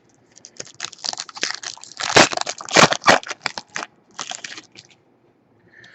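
Crinkling and crackling of trading card pack wrappers and cards being handled: a dense run of sharp crackles, loudest two to three seconds in, that dies away near the end.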